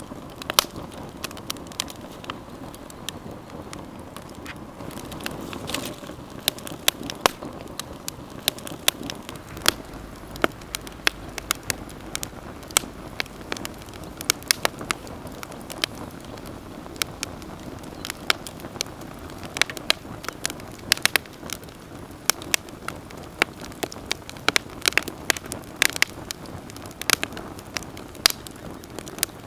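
Wood campfire crackling, with many sharp, irregular pops and snaps of burning wood over a steady low rush of flames.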